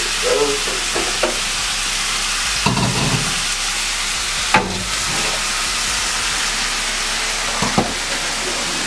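Stir-fry vegetables sizzling steadily in a wok, with a few short knocks of pots and pans being handled.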